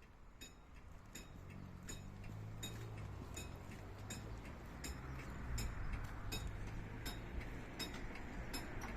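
Old level crossing warning bells inside the barrier boxes, ringing faintly with about two strikes a second, over a low steady hum.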